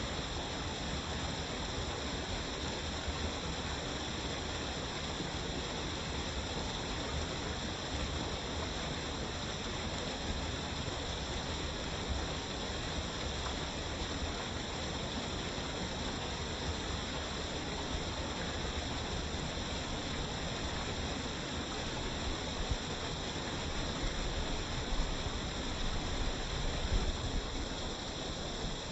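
Waterfall: water falling and rushing in a steady, even roar, with a few stronger low surges near the end.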